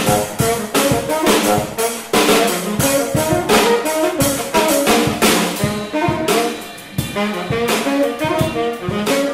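Jazz band playing: horns carry a melody of held notes over a drum kit with regular cymbal and drum strokes.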